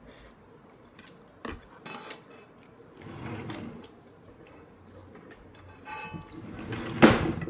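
Eating utensils clinking and scraping against dishware while eating ramen: a few separate clicks and knocks, one ringing clink about six seconds in, and a louder knock near the end.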